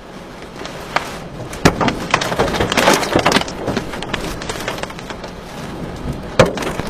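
Rushing tornado wind with a rapid scatter of sharp knocks and cracks of debris striking, thickest a couple of seconds in, with one loud crack near the end.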